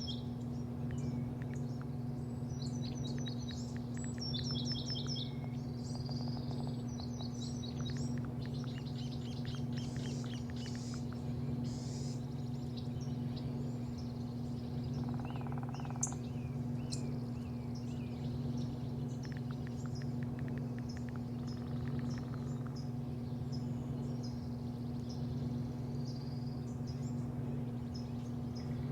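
Birds chirping and trilling in short, quick runs of high notes over a steady low machine hum.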